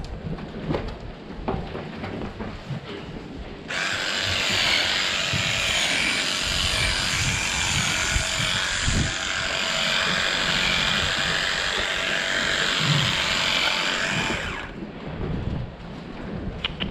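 A power tool running steadily for about eleven seconds, starting suddenly a few seconds in and cutting off suddenly near the end.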